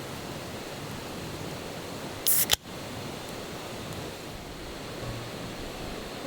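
Steady background hiss, broken about two seconds in by one short, sharp snap.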